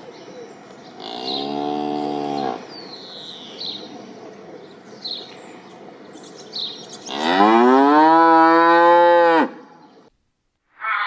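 Cow mooing twice: a shorter moo about a second in, then a longer, louder moo about seven seconds in that rises in pitch and then holds. Small birds chirp faintly in the background.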